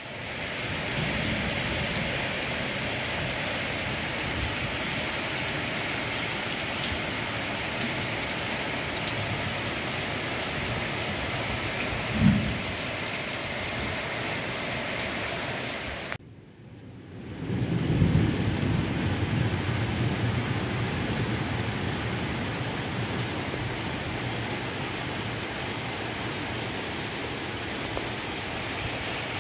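Heavy monsoon rain falling steadily. There is one sharp knock about twelve seconds in, and after a brief break just past halfway a low rumble swells up before the rain settles back to its steady level.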